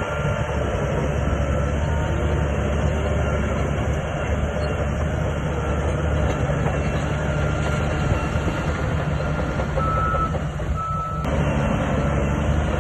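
SHANTUI crawler bulldozer working, its diesel engine running steadily under load with the clatter of its steel tracks, and a couple of brief high squeaks about ten seconds in.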